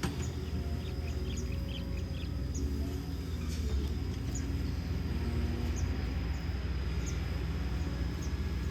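Kobelco SK210LC excavator's Hino J05E-TG diesel engine running steadily, a constant low rumble. A few faint short high chirps sound over it now and then.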